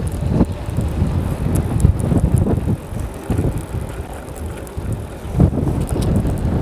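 Strong wind buffeting the microphone in gusts, a low rumble that eases for a couple of seconds in the middle, with a few faint ticks above it.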